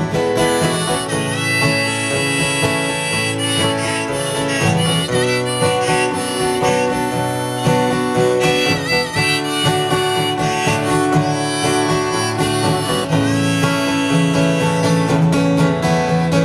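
Instrumental break in a folk-rock song: a harmonica plays a melody over strummed acoustic guitar, with a few bent notes.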